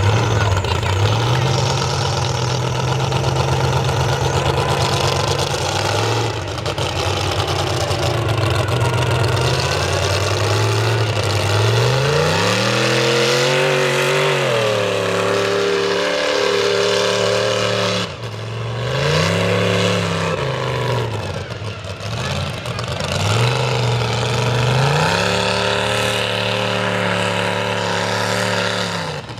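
Mega truck engine running loud, then revving up and dropping back three times, holding the high revs for a few seconds on the first and last pulls.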